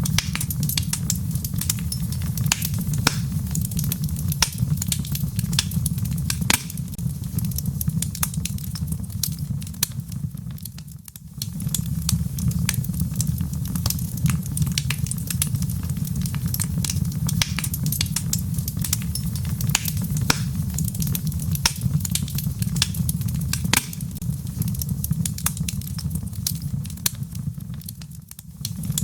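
Wood fire in a fireplace crackling with frequent sharp pops over a steady low rumble, with a light patter of rain mixed in. The rumble briefly drops away twice, about eleven seconds in and again near the end.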